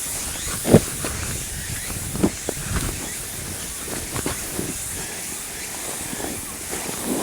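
A steady, high-pitched cicada chorus drones throughout. Several short knocks and thuds from something being handled come and go, the loudest a little under a second in.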